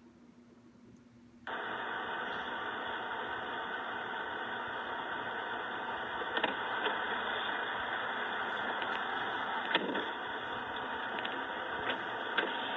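Steady noisy hum with a few faint clicks, starting after about a second and a half of near silence.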